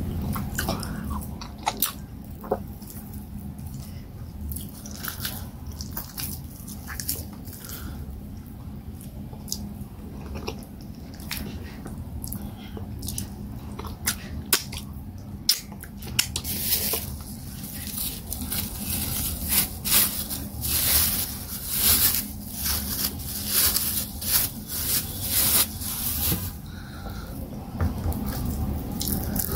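Close-miked eating sounds of fufu with peanut waterleaf soup eaten by hand: wet chewing and mouth smacks with many sharp clicks, busier and louder in the second half.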